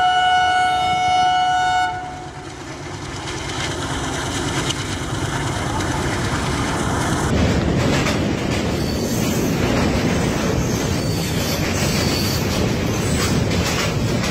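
An Indian Railways diesel locomotive sounds its horn, a chord of several steady tones that stops about two seconds in. Then comes the rumble and clatter of a train running across a steel truss bridge, heard from on board, growing louder over the next few seconds and then holding steady.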